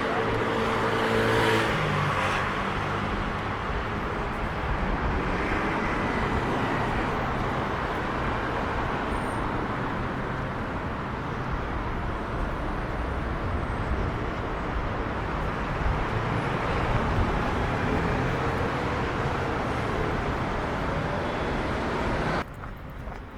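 Steady city road traffic noise, with the hum of a nearby vehicle engine in the first couple of seconds. The sound drops off suddenly near the end.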